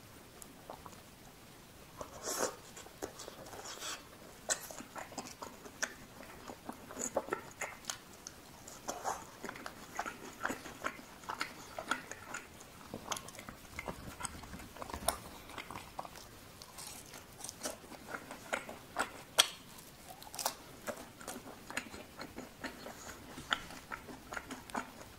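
Close-miked chewing of a fried cheese ball with stretchy cheese inside, a dense run of short wet mouth clicks and smacks starting about two seconds in.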